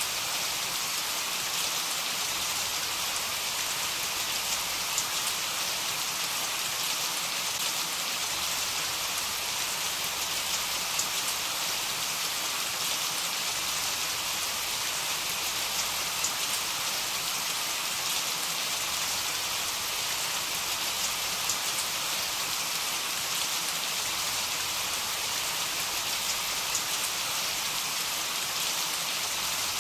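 Heavy rain falling steadily: an even, dense hiss with scattered sharper drop ticks.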